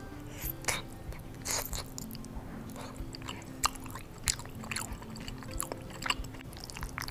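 Close-miked chewing of a mouthful of cheesy baked lasagna: irregular wet mouth clicks and smacks, several to a second.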